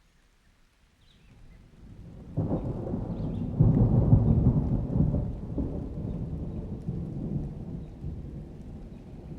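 A peal of thunder: a low rumble swells from about a second in, breaks sharply louder at about two and a half seconds, peaks around four seconds, then rolls away slowly.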